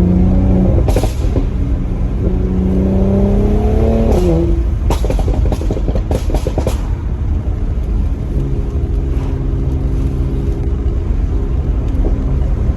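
Mercedes-AMG C43's twin-turbo V6 through the factory Performance exhaust, on a Stage 1 tune. It pulls up in revs under acceleration. Around the middle come a quick run of pops and bangs as the throttle is lifted, and then it runs steadily.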